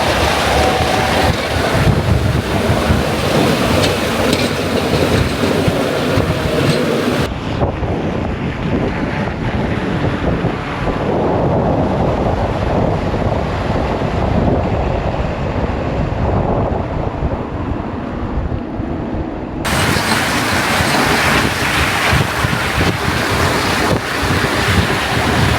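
Strong blizzard wind blowing across the microphone, a loud, steady rushing noise. It turns duller and loses its hiss abruptly about seven seconds in, then sharpens again just before twenty seconds.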